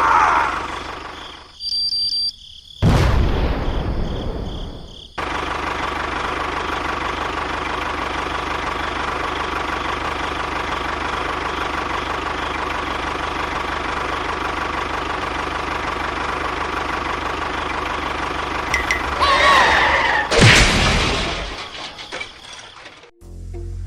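A motor running steadily with a constant whine, broken by abrupt cuts and a loud thump in the first few seconds.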